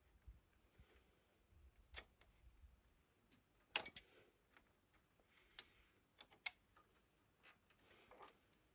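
Near silence broken by a handful of short, sharp clicks and taps, about five of them spread irregularly, as hand tools and parts are handled during removal of a riding mower's engine.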